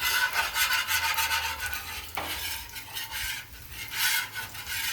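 Metal spatulas scraping and tossing fried rice on a Blackstone flat-top griddle in irregular strokes, over the sizzle of the rice frying.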